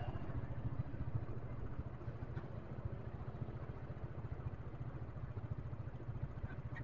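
Motorcycle engine running steadily at low revs, a quick even pulse with no revving, dropping a little in level about two seconds in.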